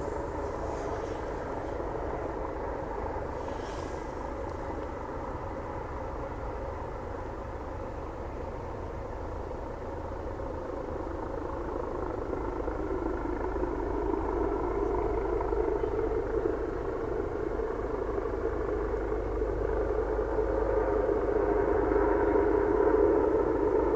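AgustaWestland AW139 twin-turbine helicopter running steadily, a blend of rotor and turbine noise, growing louder in the second half as it comes in to land.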